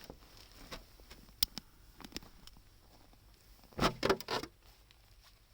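Campfire crackling: scattered sharp pops and snaps from the burning wood, with a brief louder rustling clatter about four seconds in.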